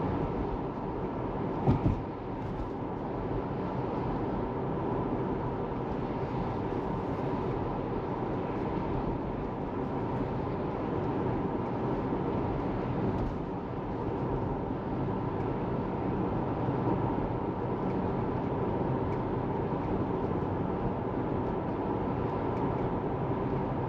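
Tesla Model 3 driving along: a steady hum of tyre and road noise, with a short thump about two seconds in.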